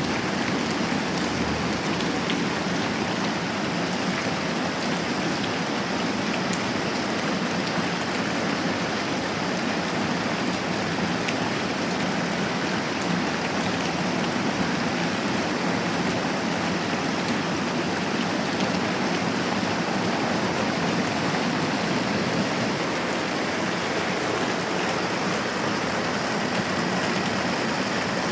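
Steady moderate rain, an even hiss with occasional faint ticks of drops.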